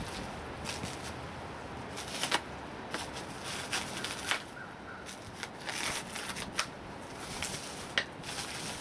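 Irregular crackling, rustling and sharp clicks of packaging being handled during an unboxing.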